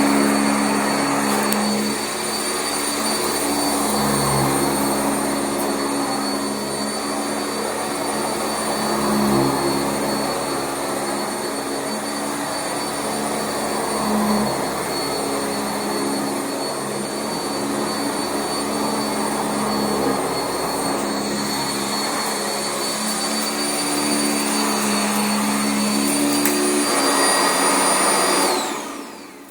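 Sanitaire SC679J commercial upright vacuum running steadily over carpet with a thin high whine. Near the end it is switched off and the whine falls away as the motor spins down.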